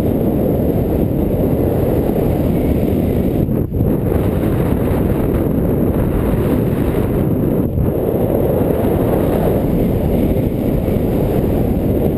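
Strong wind buffeting the camera's microphone: a loud, steady low rumble that briefly drops out twice.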